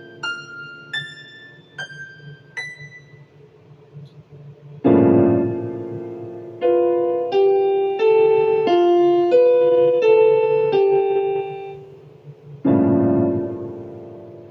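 Piano music: a few high single notes, then a low chord struck about five seconds in with a slow melody of single notes over it, and another low chord near the end, each note fading after it is struck.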